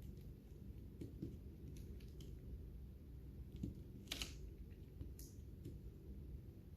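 Lovebirds cracking and eating seeds: scattered small, irregular clicks, with one sharper, louder snap about four seconds in.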